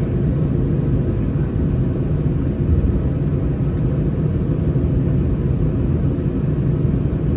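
Steady low rumble inside the cabin of an Airbus A319, from its CFM56 jet engines and the airframe.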